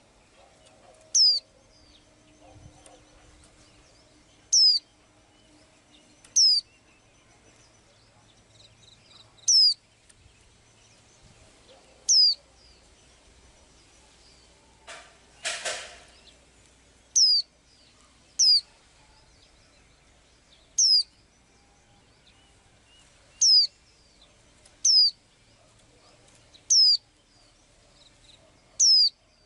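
A small bird repeating one short, high call that sweeps quickly downward in pitch, about a dozen times at intervals of roughly two to three seconds. About halfway through there is a single brief harsh rasp.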